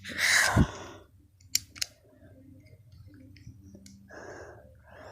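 A breathy exhale, then two sharp clicks about a second and a half in, followed by faint rustling as plastic toy trains are handled.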